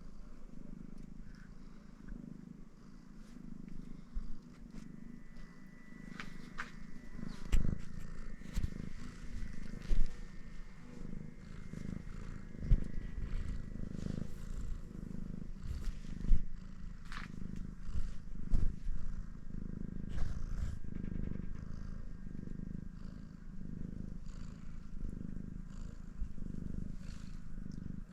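A domestic cat purring steadily close to the microphone, with a few soft thumps along the way.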